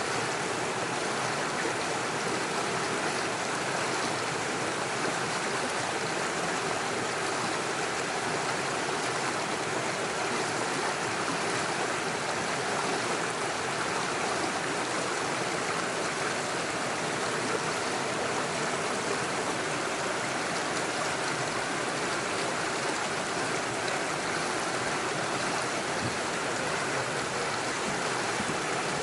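Small stream running steadily over stones and little waterfalls, a continuous rushing and splashing of water.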